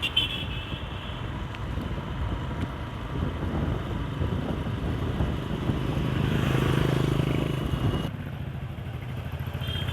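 Motorcycle riding through traffic: steady engine and road noise, swelling louder for a couple of seconds about two-thirds of the way through, then dropping back. Brief high horn beeps come at the start and near the end.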